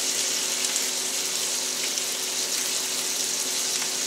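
Chicken thighs searing in a hot cast iron skillet: a steady sizzling hiss with a few faint pops.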